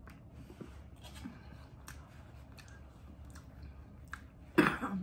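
Close-miked chewing and lip-smacking: soft wet clicks and squelches from a mouth eating, then a sudden loud burst of sound near the end.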